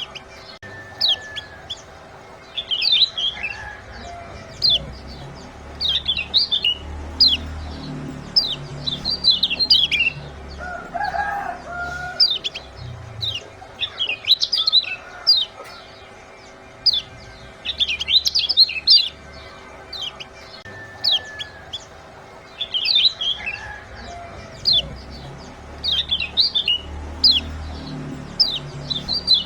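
Small songbirds giving quick, high 'ciak' chirps in clusters every few seconds, with a few lower calls between them. It is a recorded lure track played to get caged birds such as kecial kuning to start singing. A faint steady hum runs underneath.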